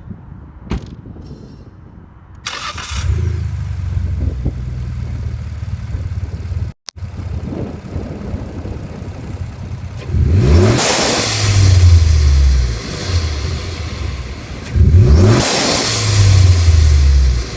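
Twin-turbo Ford Fusion engine starting about two and a half seconds in and idling, then blipped hard twice, each rev followed by the whoosh of the Steeda blow-off valve venting boost.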